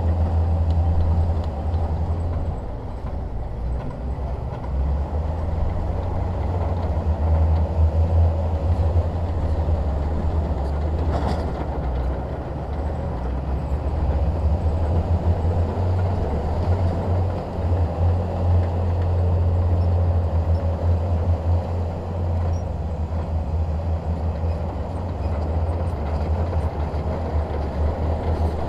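Shantui DH17 crawler bulldozer's diesel engine working, a deep steady rumble that swells and eases as it pushes rock, with a single sharp knock about eleven seconds in.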